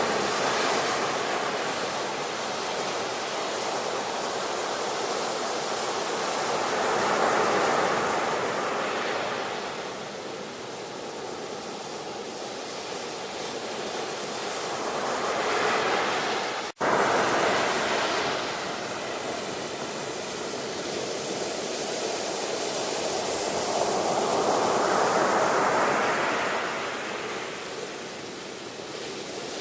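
Ocean surf: waves breaking and washing in, the rush swelling and ebbing about every eight or nine seconds, three times over. A little past halfway the sound cuts out for a split second, like a splice in the recording.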